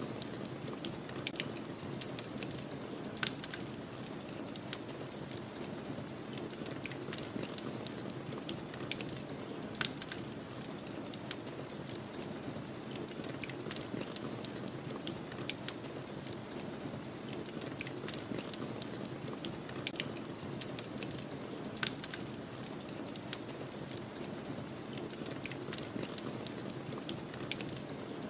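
Fire crackling, with sharp irregular pops several times a second, over a steady low rush of snowstorm wind.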